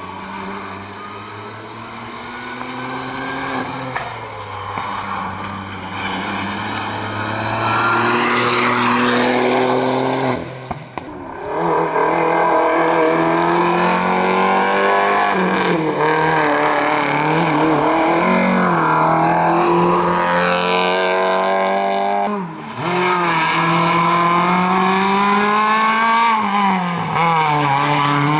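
Rally car engine at full attack, growing louder over the first several seconds, then revving hard with pitch swinging up and down through gear changes and lifts. Brief drops in sound about eleven and twenty-two seconds in.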